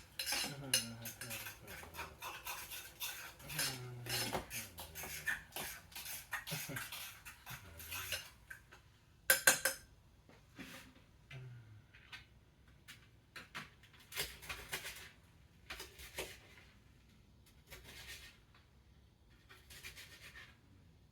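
Cutlery and dishes clinking and knocking as cooked chicken nuggets are cut up with a knife. The knocks come thick and irregular at first and grow sparser, with a pair of louder clanks about nine seconds in.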